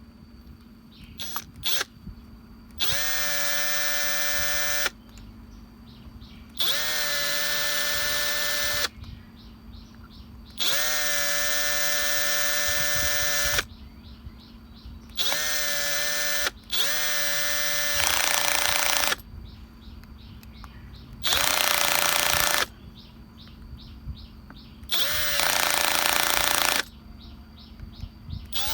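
A restored angle grinder's electric motor is switched on and off about eight times, running for one to three seconds each time with short pauses between. The later runs sound harsher and noisier.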